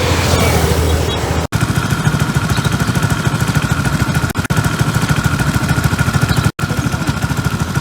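Suzuki Skydrive 125 scooter engine running steadily under way, with a faint high whine over the drone. The sound breaks off abruptly twice, about a second and a half in and near the end.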